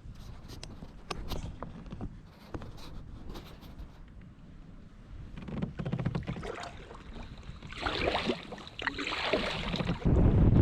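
Kayak paddling: paddle strokes splashing and dripping in calm water, with a few light knocks, and wind buffeting the microphone near the end.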